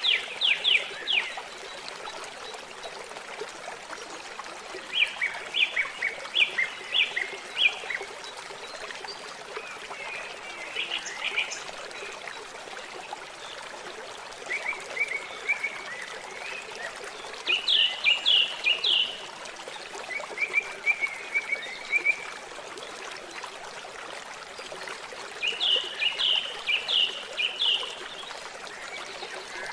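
Steady trickle of running water, with a bird singing short, fast, high trilled phrases every few seconds.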